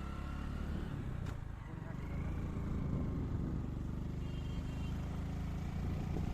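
A motor vehicle's engine runs steadily on the move, its pitch shifting a little, with a sharp click about a second in.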